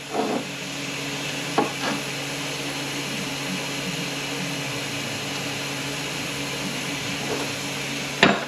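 A few light metallic clicks and clinks as automatic transmission parts are handled on the bench, over a steady background hum and hiss; the sharpest click comes near the end.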